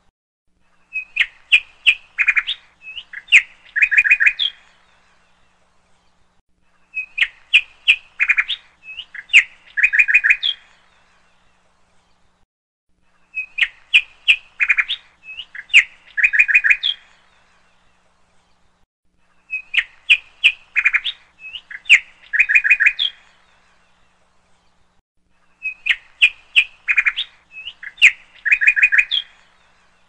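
Recorded bird chirping laid on as a loop: the same phrase of quick high chirps, about three seconds long, repeats five times, roughly every six seconds, with silent gaps between.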